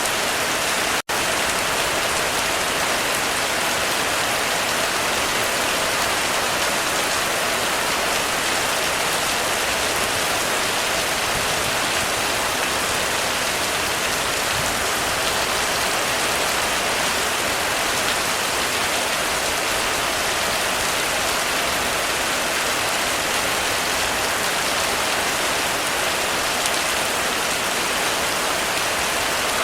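Heavy rain falling steadily on a roof, an even, unbroken hiss with no thunder. About a second in, the sound drops out for a split second.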